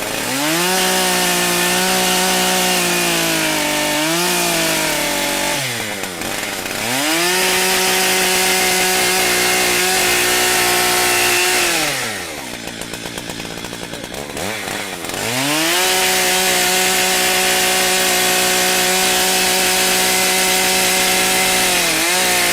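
Stihl MS880 two-stroke chainsaw, a very large 122 cc professional saw, running loud at full throttle three times and dropping back toward idle in between while cutting firewood rounds. Its chain is dull and in need of sharpening.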